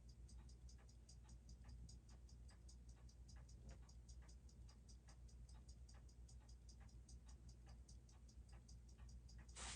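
Seiko 6R15 automatic watch movement ticking faintly and steadily, about six beats a second, as picked up by a timegrapher while its amplitude is checked after a service.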